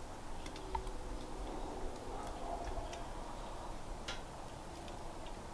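A few short, sharp clicks and ticks, irregularly spaced, over a low steady background noise; the clearest tick comes about four seconds in.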